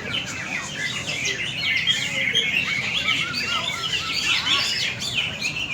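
Several cucak ijo (green leafbirds) singing at once in a dense, overlapping chatter of quick whistles and chirps.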